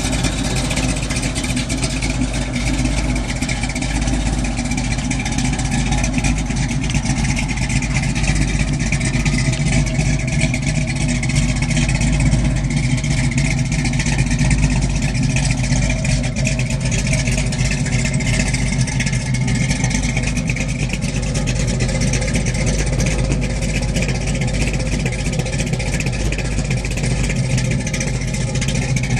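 Muscle car engine running steadily.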